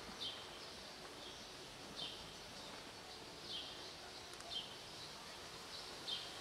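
A small bird calling: five short, high chirps, each falling in pitch, at uneven gaps of a second or two, over a steady outdoor background hiss.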